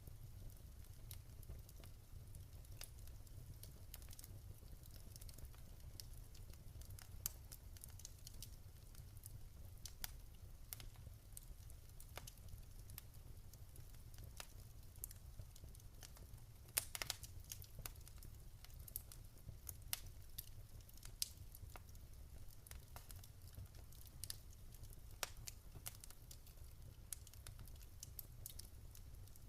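Wood fire crackling in a fireplace: scattered sharp pops and snaps over a low steady rumble, with a louder cluster of pops a little past the middle.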